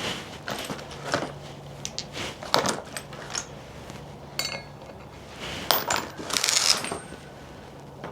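Metal hand tools clinking and clattering irregularly, like sockets being picked up and set down while sizing a fastener. A short metallic ring sounds about four and a half seconds in, and a denser, louder run of clatter comes near six seconds.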